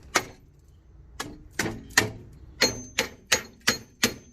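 Hammer blows on a front wheel hub bearing, tapping it loose to knock it out of its housing. About nine sharp, ringing metal strikes, sparse at first and then quickening to roughly three a second in the second half.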